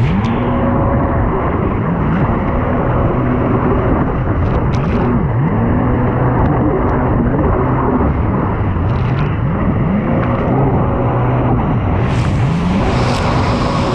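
Jet ski engine running hard, its pitch dropping and climbing back again about every two seconds as the throttle is let off and opened up.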